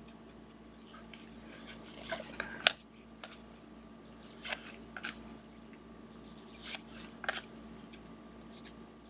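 Football trading cards being handled: a series of short rustles and light clicks, the sharpest about two and a half seconds in.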